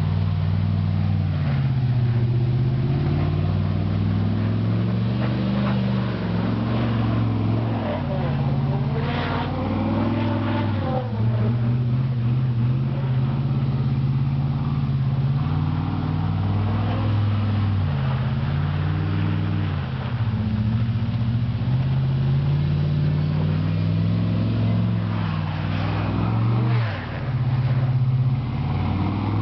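2002 Chevy monster truck's engine revving up and down while spinning donuts in snow, its pitch rising and falling again and again, with a short drop off the throttle near the end.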